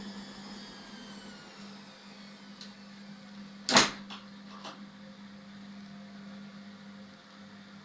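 Indesit washing machine running, with a steady hum and a high motor whine that falls in pitch over the first two seconds. A loud sharp clunk about four seconds in is followed by two fainter knocks.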